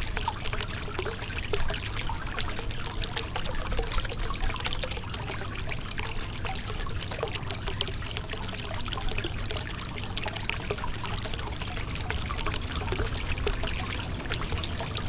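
Shallow river water running over a rocky bed: steady babbling and trickling, dotted with many small splashes.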